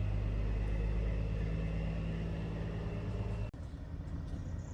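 A vehicle engine running steadily at low speed. About three and a half seconds in, the sound drops off abruptly to a quieter steady hum.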